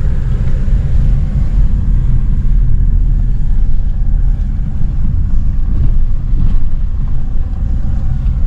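Steady low rumble of a car's engine and road noise heard from inside the cabin while driving slowly.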